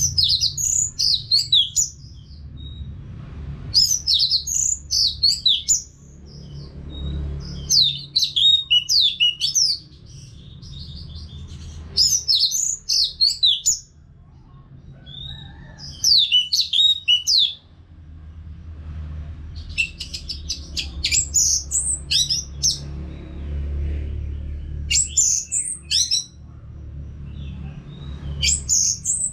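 Orange-headed thrush (anis merah) singing in about eight rapid, high-pitched phrases of a second or two each, separated by short pauses, over a steady low hum.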